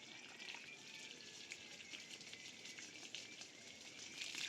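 Faint running, splashing water, with a steady hiss and many small irregular ticks.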